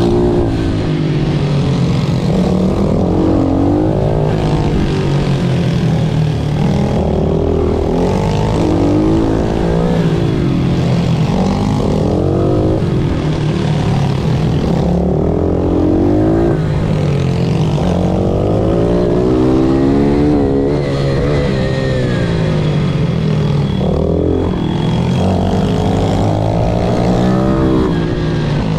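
A pit bike's single-cylinder engine at racing effort. The revs climb and drop again and again as the bike accelerates, shifts gear and slows for corners.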